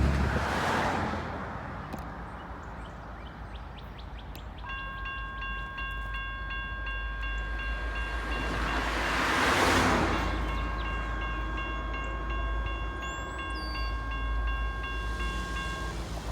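Railroad grade-crossing warning bell starts ringing about five seconds in, a rapid, steady ding that keeps on until just before the end. A low rumble runs underneath, and a rush of noise swells and fades near the middle.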